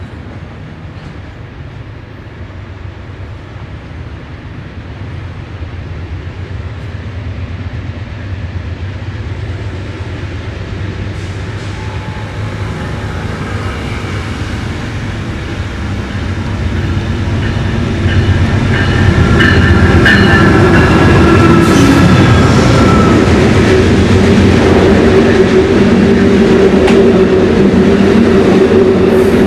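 Diesel-hauled train approaching, growing steadily louder over about eighteen seconds, then running loud and steady as it passes close by.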